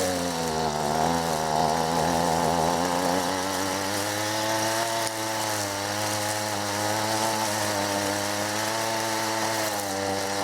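Stihl FS 38 string trimmer's small two-stroke engine purring steadily, slightly wavering in pitch, running again after a new spark plug was fitted.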